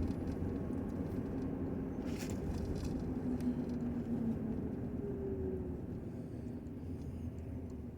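Steady low rumble of a vehicle running, with a faint hum rising and falling through the middle.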